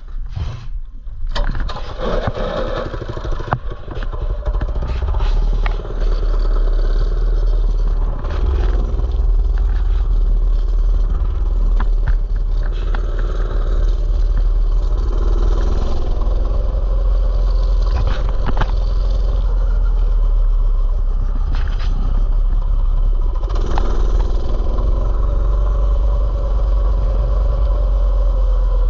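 A mini bike's small engine starting in the first couple of seconds, then running steadily as the bike is ridden.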